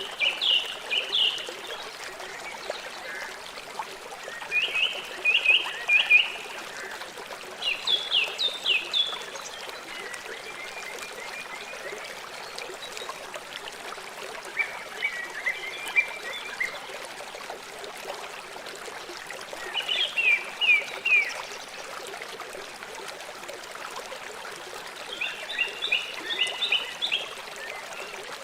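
River water flowing steadily. Over it, every few seconds, come short phrases of rapid chirps, about six phrases in all.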